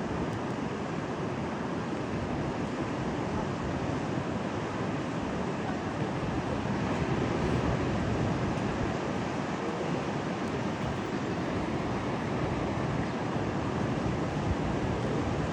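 Rough, stormy sea: surf crashing and churning steadily, with slow swells in loudness, and wind buffeting the microphone.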